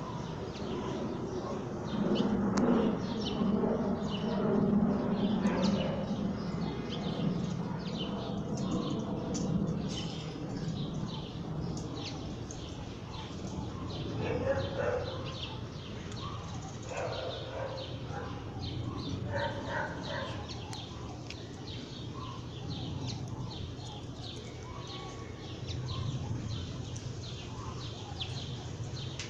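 Outdoor ambience with small birds chirping over and over. A low rumble sits under the first several seconds, and a few louder, mid-pitched sounds come near the middle.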